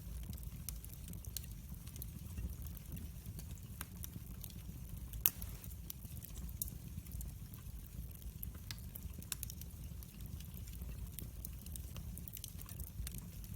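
Wood fire crackling in a fireplace: irregular sharp pops and snaps over a low, steady rumble, with one louder pop about five seconds in.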